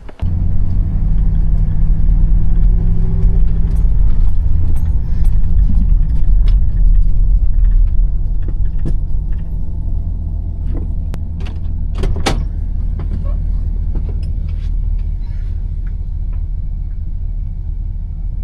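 Vehicle engine starting suddenly and settling into a steady low running rumble, heard close up as from inside the vehicle, easing slightly about halfway through. A few sharp clicks come around two-thirds of the way in.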